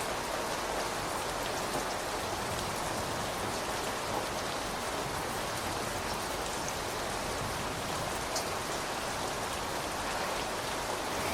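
Steady rain falling, an even hiss with a few individual drops ticking now and then.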